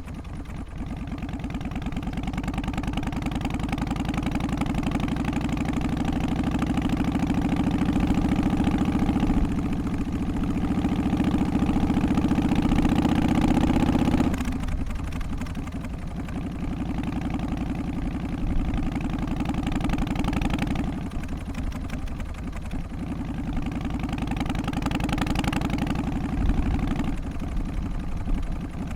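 Harley-Davidson Twin Cam 88 V-twin running with its pulsing beat. Its revs and level build slowly for about fourteen seconds, then fall away suddenly as the throttle is eased off, and the engine carries on at lower, rising and falling revs.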